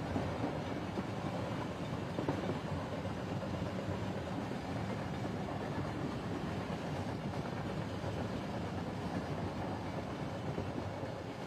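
A train running on its rails: a steady rumbling noise.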